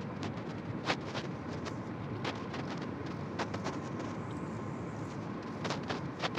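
Long freight train rolling past: a steady rumble of the cars going by, with scattered sharp clicks and clacks from the wheels on the rails.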